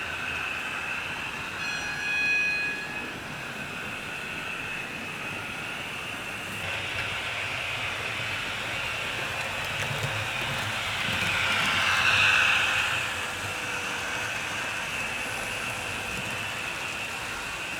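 HO-scale model trains running on the layout: a steady high motor whine with wheel noise on the track, swelling louder as a train passes close about twelve seconds in. A brief high-pitched tone sounds about two seconds in.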